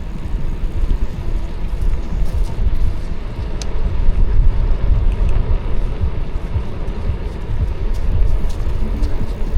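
Wind buffeting the microphone of a moving e-bike, a loud, uneven low rumble with a few faint ticks.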